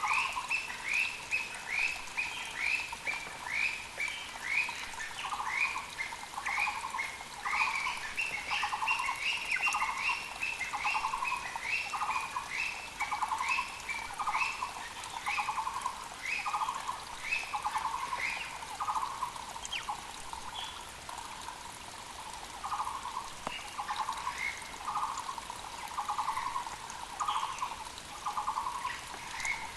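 Muller's (Taiwan) barbets calling, a steady rhythmic series of hollow notes about one a second that pauses briefly past the middle and starts again. Over the first two-thirds a second, higher series of quick down-slurred notes runs faster. A mountain creek hisses steadily underneath.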